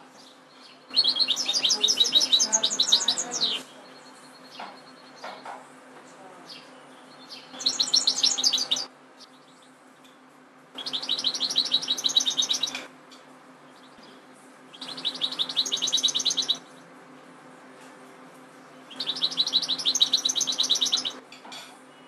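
European goldfinch singing in five separate bursts of about two seconds each, rapid high twittering trills with short pauses between.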